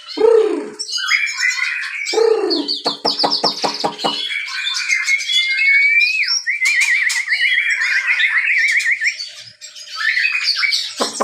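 Several captive songbirds singing and calling at once: chirps and harsh pulsed calls near the start and about two seconds in, then a fast, even trill from about six and a half to nine seconds in.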